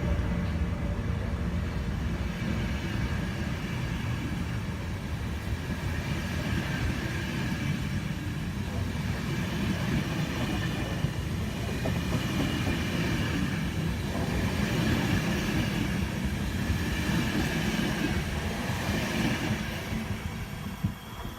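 Train running past on the line: a steady rumble of wheels on rail with faint, steady high tones above it.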